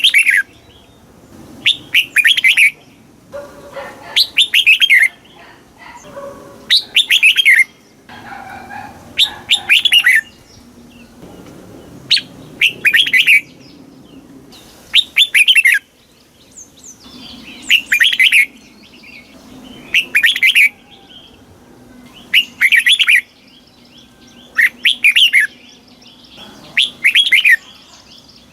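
Red-whiskered bulbul singing: short, bright whistled phrases of about a second each, repeated roughly every two and a half seconds.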